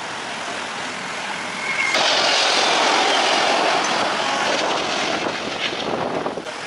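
Jet airliner engine noise, a steady rushing sound that jumps louder suddenly about two seconds in and drops back abruptly near the end.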